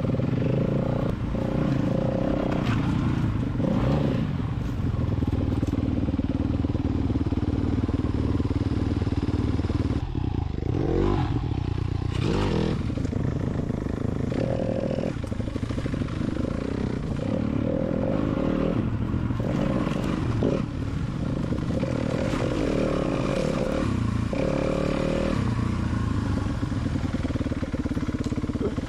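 Four-stroke dirt bike engine riding a trail, its pitch rising and falling with the throttle and briefly dropping off several times, with the bike clattering over rough ground.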